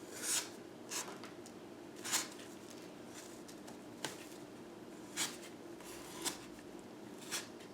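Plastic palette knife spreading drywall spackling over a foam cake dummy: faint short scrapes and squishes, about one a second.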